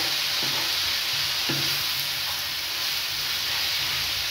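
Mashed raw jackfruit with onion and tomato sizzling steadily in a nonstick frying pan, stirred by hand, with a couple of soft strokes of the spatula against the pan.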